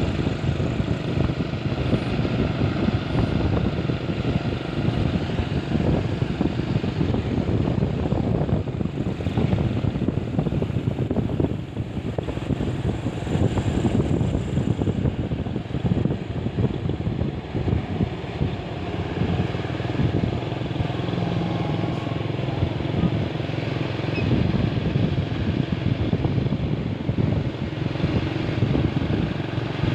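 Truck's diesel engine running steadily, a continuous rough low engine sound.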